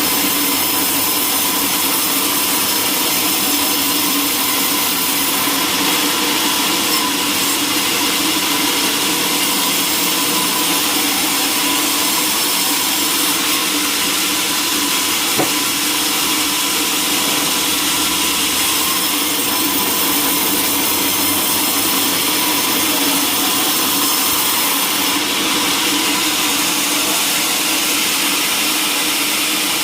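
Sawmill saw running steadily and cutting timber, with one sharp click about halfway through.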